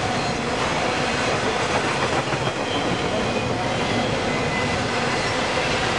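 Freight train cars rolling past, a loud steady rumble and rattle of steel wheels on rail with no letup.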